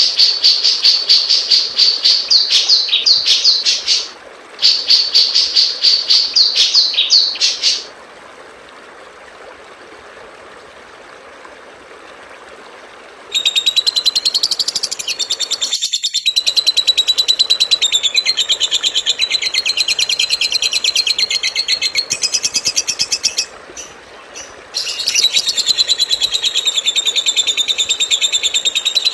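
Recorded songbird song: phrases of very fast, high, repeated chirping notes that break off about eight seconds in, followed by a few seconds of faint hiss. From about thirteen seconds a denser, continuous high chattering trill runs, pausing briefly about twenty-four seconds in.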